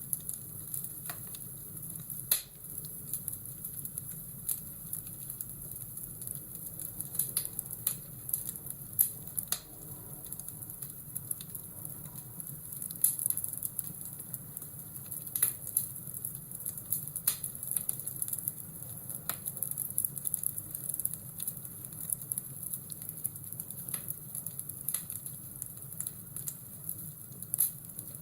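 Fireplace fire crackling: irregular sharp pops over a steady hiss.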